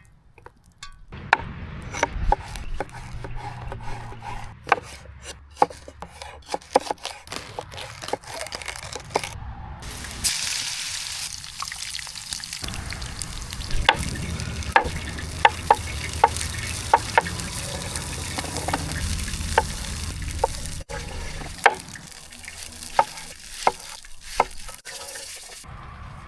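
Breakfast frying in a pan over a camp fire, with a utensil tapping and stirring against the pan; the sizzle comes in strongly about ten seconds in.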